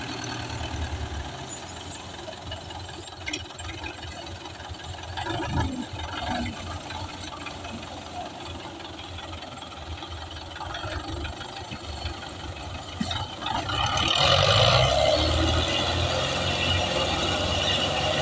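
Tractor engine running with a steady low rumble, growing louder about fourteen seconds in as it is revved or put under load.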